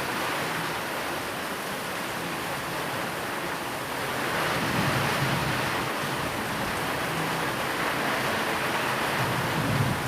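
Steady rain, an even hiss that swells about four seconds in and again near the end.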